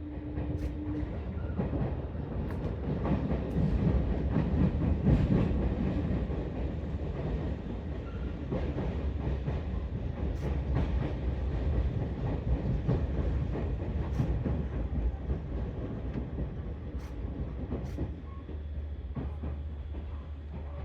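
Seibu Railway electric commuter train running at low speed, heard from inside the car: a steady rumble of wheels on rail with scattered clicks over rail joints and points. It swells a little a few seconds in, then eases off.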